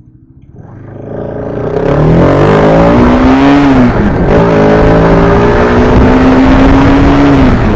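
Motorcycle engine accelerating hard: it swells up, revs climb, drop at a gear change about four seconds in, then climb again and hold high before easing off near the end.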